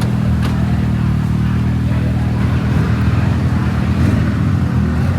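A motor vehicle engine running steadily at a low, even pitch, like an idle, with no revving.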